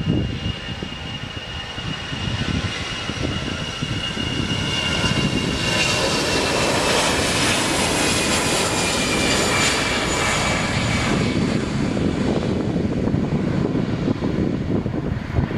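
Jet airliner's engines at take-off thrust: a loud steady rush with a high fan whine that slowly falls in pitch, loudest in the middle as the aircraft passes, easing off near the end.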